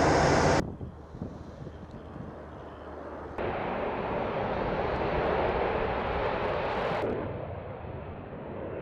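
Fighter jet engine noise in several spliced shots: a loud stretch that cuts off abruptly under a second in, a quieter stretch, then a louder one from about three and a half seconds that drops back about seven seconds in.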